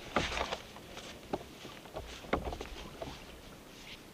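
Water splashing and knocking against a kayak hull: a short burst of splashing, then a few sharp knocks spaced about a second apart.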